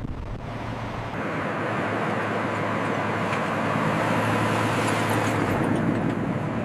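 Steady engine noise from a running vehicle: a broad rushing sound over a constant low hum, growing slightly louder after about a second.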